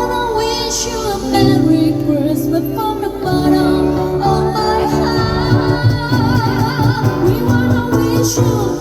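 A female vocalist singing over amplified instrumental accompaniment, her held notes wavering with vibrato above a steady bass line.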